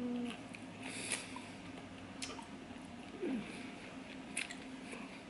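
A person chewing a mouthful of sushi close to the microphone, with a few sharp wet mouth clicks and short hums near the start and about three seconds in.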